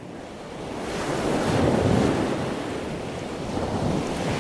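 Sea waves washing in a steady rush, with wind buffeting the microphone. The sound fades in and swells, peaking about a second and a half to two seconds in.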